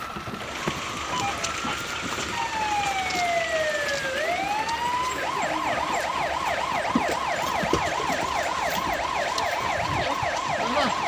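Electronic emergency siren: a slow wail rising and falling for the first few seconds, then switching about five seconds in to a fast yelp of roughly four sweeps a second.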